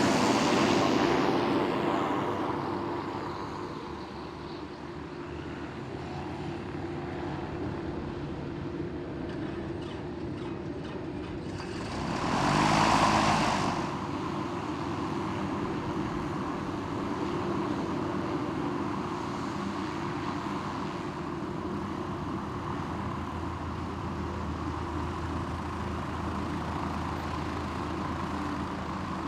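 Light propeller aircraft's engine fading away after passing, leaving a steady low engine hum. About twelve seconds in, a brief louder whoosh rises and falls.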